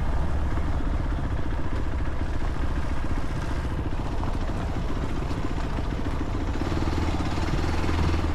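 Motorcycle engine running steadily while under way, a constant low rumble with no change in pace.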